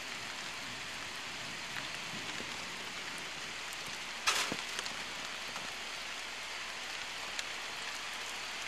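Rain falling steadily, an even hiss, with one sharp knock a little over four seconds in.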